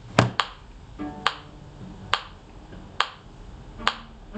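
Metronome ticking steadily, a sharp click a little under a second apart, with a faint bowed string note held for about a second after the first few clicks.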